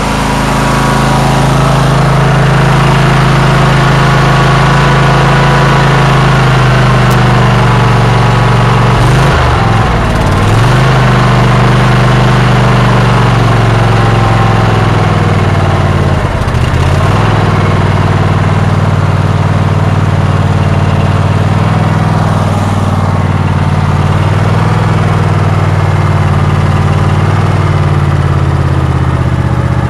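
20 hp Kohler engine of an MTD Troy-Bilt lawn tractor running steadily moments after a cold start in sub-freezing weather. Its speed sags and recovers twice, about nine and sixteen seconds in.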